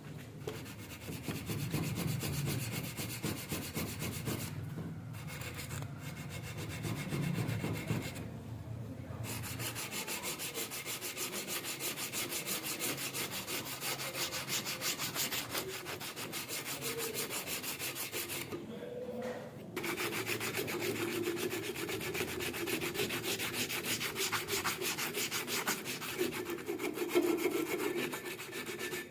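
Rapid abrasive scrubbing strokes on the rusted steel cutting pliers, sanding or filing off the rust, with a few brief pauses.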